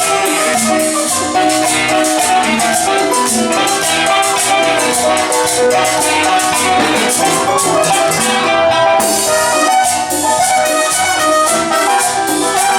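A dance orchestra playing live music: an instrumental passage over a steady, quick percussion beat.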